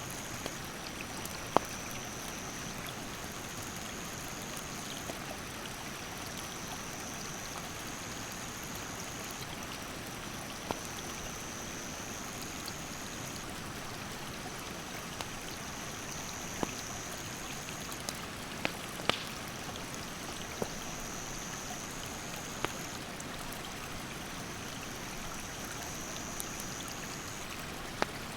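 Steady rush of a mountain stream, with sharp crackles and pops from a wood campfire at irregular moments. Over it, an insect keeps up a high, even trill in repeated phrases of about two seconds.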